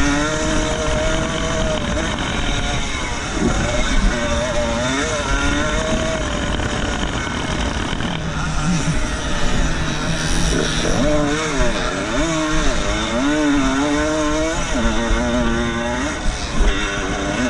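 Motocross motorcycle engines revving up and down as they race, the pitch climbing and dropping again and again, at times two engines overlapping.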